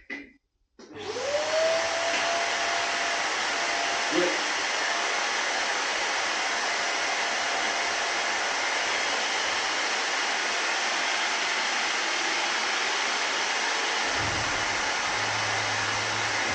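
Shop vacuum switched on about a second in: its motor spins up with a rising whine, then runs with a steady, loud rush of air as dust extraction for an orbital sander. A short click comes a few seconds later, and a lower hum joins near the end.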